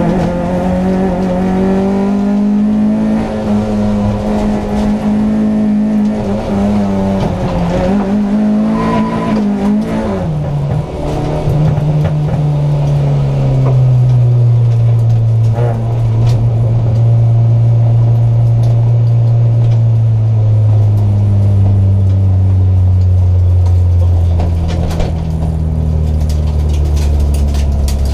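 Hyundai Excel race car's four-cylinder engine heard from inside the cabin, holding steady revs for about ten seconds, then dropping and winding slowly lower as the revs fall away.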